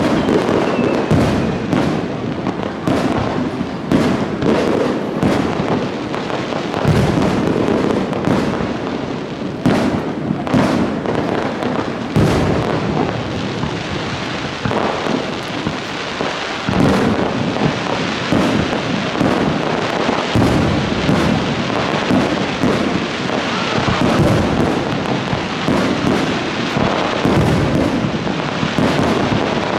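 Aerial fireworks display: shell bursts going off in quick succession, one after another without a break, with crackle and a continuous rumble between the booms.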